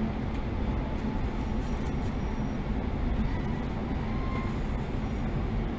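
Inside a JR 115-series electric train, the steady rumble of wheels and running gear as the train rolls slowly alongside the station platform, pulling into a stop. A few faint, brief squeals come about three to four seconds in.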